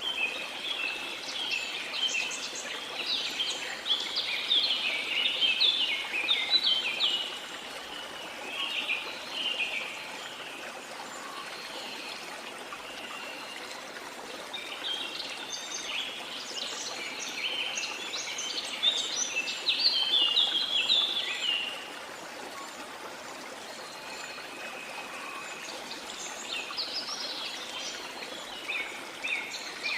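Steady rush of flowing water under bouts of fast, chirping bird song, loudest in the first several seconds and again from about fifteen to twenty-two seconds in, with more song near the end.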